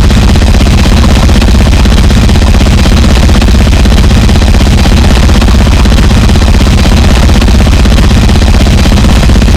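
Gore noise music: a loud, constant wall of heavily distorted noise with a heavy low end and a fast, dense texture, without a break.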